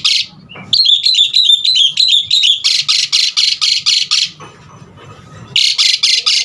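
Javan pied starling (jalak suren) singing: fast runs of harsh rasping notes, about seven a second, around a chattering whistled phrase, with a short pause a little past the middle.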